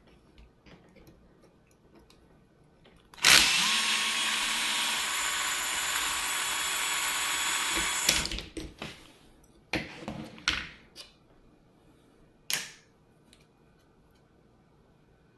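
Electric drill/driver running steadily for about five seconds, undoing a fastener on an RC truck. It is followed by several short clicks and knocks of small parts being handled.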